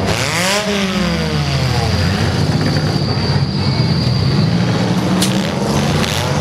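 Engines of several compact demolition-derby cars running and revving hard, one engine's pitch dipping and rising in the first two seconds. A sharp bang about five seconds in.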